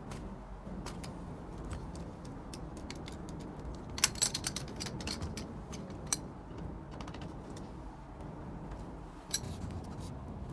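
Scattered light clicks and metallic clinks of small objects being handled, with a dense flurry about four seconds in and one sharper click near the end, over a low steady rumble.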